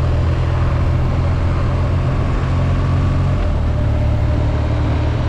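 BMW R nineT's 1170 cc air/oil-cooled boxer twin running at a steady cruise under way, with a low, even engine note and rushing wind. The note shifts slightly a little past halfway.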